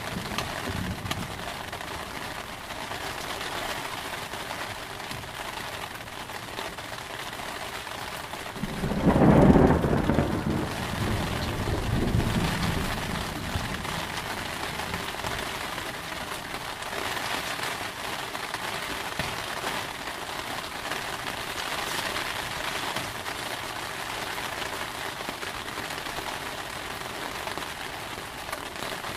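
Steady heavy rain with a loud rumble of thunder about nine seconds in that dies away over the next few seconds.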